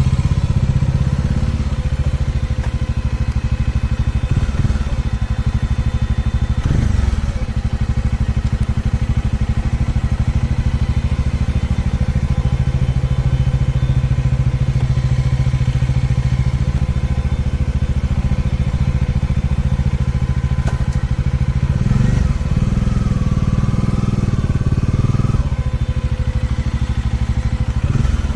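Dominar 400 UG2 motorcycle's single-cylinder engine running steadily, with a few brief changes in its note along the way.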